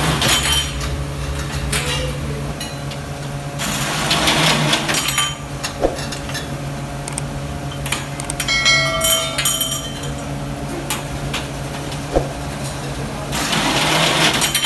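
Metalworking workshop noise: a machine hums steadily while metal parts knock and clink, with a cluster of ringing metallic tones about nine seconds in. Three bursts of rushing, hissing noise come near the start, around four seconds in and near the end.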